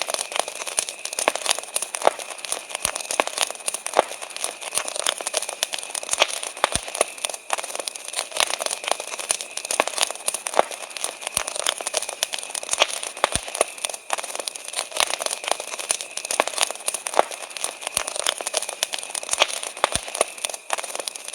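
Wood campfire crackling steadily, with frequent sharp, irregular pops. Behind it runs a continuous high trill of summer-night crickets.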